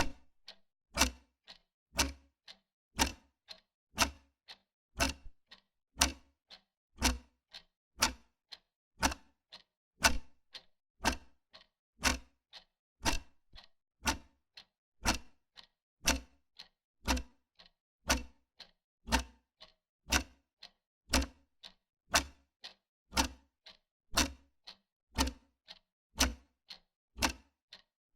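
Wall clock ticking steadily, about one tick a second.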